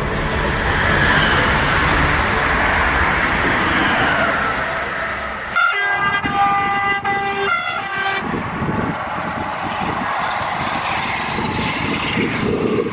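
High-speed train running past with a loud rushing noise; just past halfway its horn sounds a steady chord for about two and a half seconds before the rushing noise carries on.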